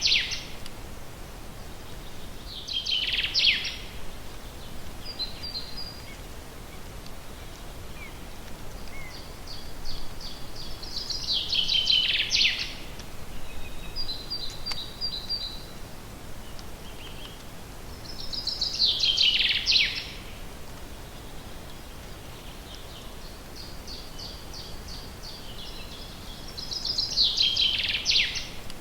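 A songbird sings the same short song over and over, about every seven to eight seconds. Each song is a quick run of high repeated notes that drops lower at the end. Short high chirps come between the songs over a steady background hiss.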